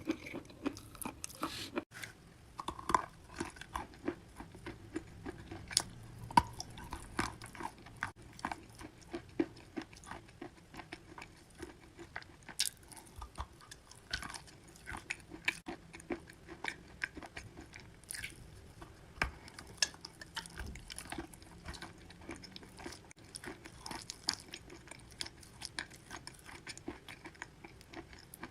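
Close-up chewing of wet chalk: soft, irregular crunching and crackling as the chalk is bitten and ground between the teeth.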